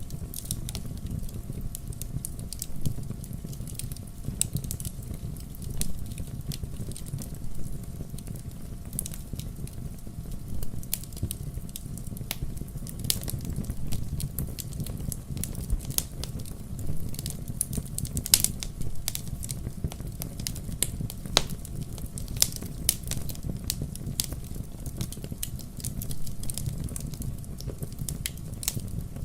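Wood fire crackling, with frequent sharp, irregular pops over a low steady rumble.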